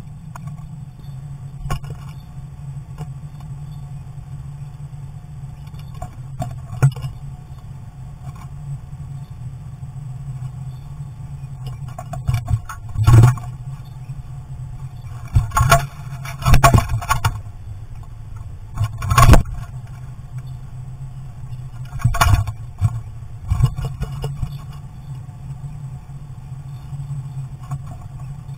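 A starling scratching and knocking at the birdhouse entrance hole, its claws and bill on the box heard close up from inside: a run of sharp scratches and knocks in the middle, over a steady low hum.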